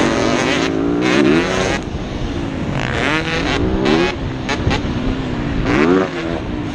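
Motocross bike engines revving hard under racing load. The pitch climbs and drops back several times as the riders work the throttle and shift gears.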